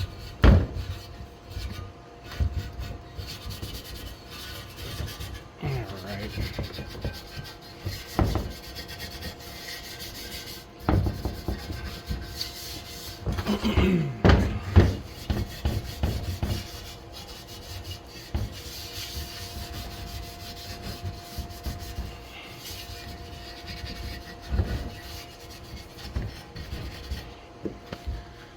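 Hand rubbing and scraping on a part, with irregular knocks and clunks as it is handled, a busier stretch of scraping and knocks about halfway through.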